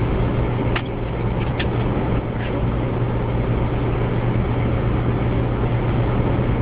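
Car interior noise while driving: a steady low engine drone with road and tyre noise, and a few faint clicks in the first couple of seconds.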